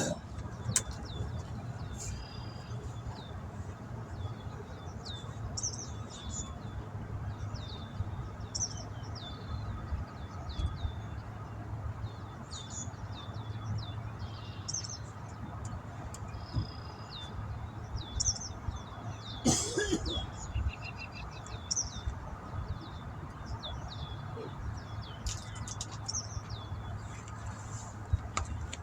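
Small birds chirping, short high chirps repeated about once a second, over a steady low hum. A brief, louder noise cuts across it about twenty seconds in.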